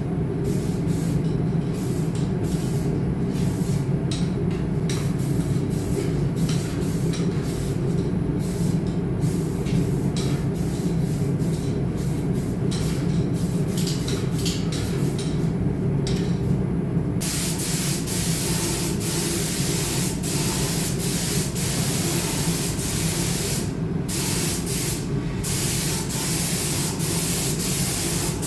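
Compressed air hissing in repeated bursts a few seconds long, starting about two-thirds of the way in, over a steady low hum.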